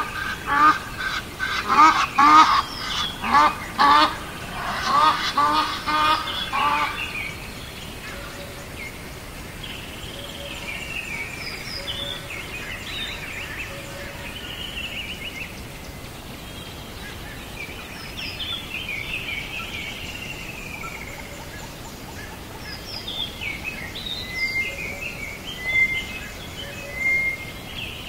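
Birds calling: a loud run of repeated calls for about the first seven seconds, then scattered chirps and whistled calls from smaller birds.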